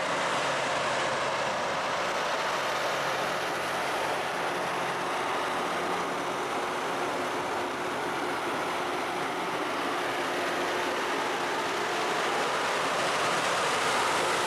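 LORAM rail grinder train running on the track: a steady, loud rushing noise with a low engine hum beneath. It grows a little louder near the end.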